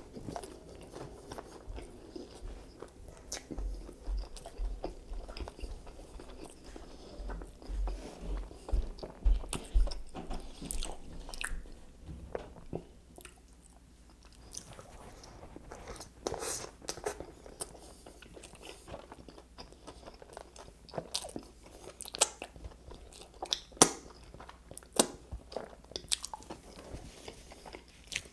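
A person chewing and biting into a KFC fried chicken sandwich, with irregular crunches, crackles and wet mouth clicks. The crunches are sharper and more spaced out in the second half.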